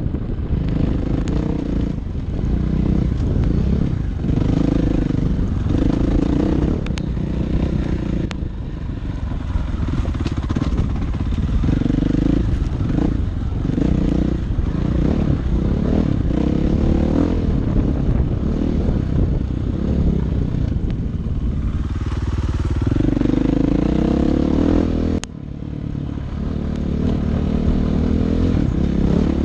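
Dirt bike engine running under load on a trail, its pitch rising and falling repeatedly as the throttle is opened and closed, with some clatter. The engine note drops off sharply for a moment about 25 seconds in, then picks up again.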